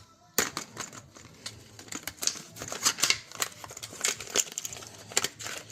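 Irregular small clicks and taps of hand tools and small metal engine parts being handled as a nitro RC engine is opened up.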